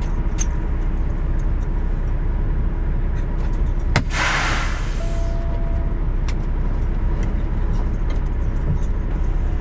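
Semi-truck engine running steadily, heard from inside the cab. About four seconds in there is a click and a short burst of hissing air, like the air brakes letting air out. A brief steady beep follows about a second later.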